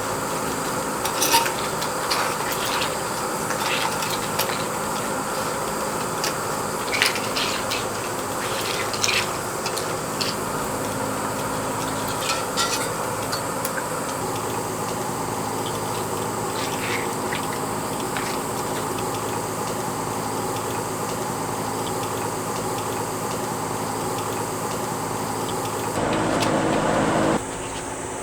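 Food sizzling in a pan while a utensil stirs and scrapes it, with irregular clinks against the pan in roughly the first half. A steady hum runs underneath. A louder stretch near the end breaks off suddenly.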